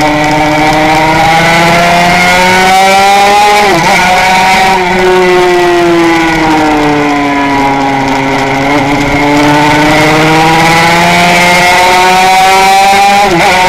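Honda RS125 single-cylinder two-stroke racing engine running hard at high revs, heard onboard over wind rush. Its note sags slowly through the corners and climbs again, with two brief sharp breaks in the note, about four seconds in and near the end.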